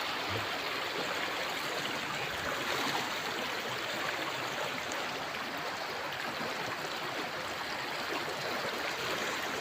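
Shallow, clear river running over rocks: a steady rushing of water.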